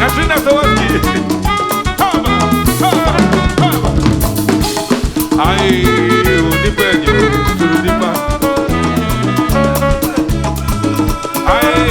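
A band playing upbeat traditional music, with drums and a repeating bass line under several melodic parts.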